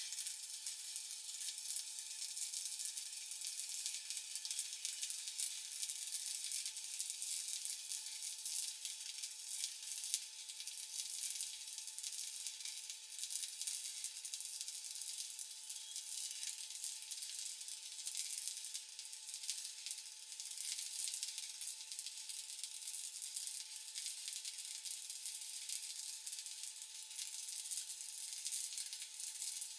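Stick (SMAW) welding arc crackling and sizzling steadily as a vertical weld is run, with a faint steady tone underneath.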